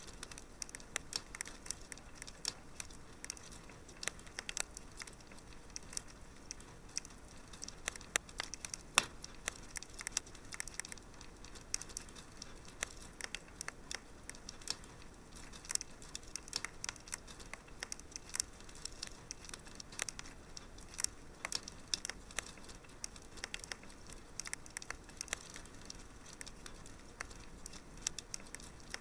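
Wood fire in a fireplace crackling, with a steady stream of irregular sharp pops and snaps over a soft hiss.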